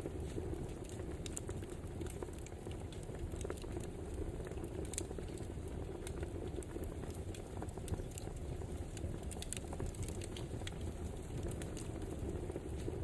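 Wood fire burning with a steady low rush and frequent sharp crackles and pops scattered throughout.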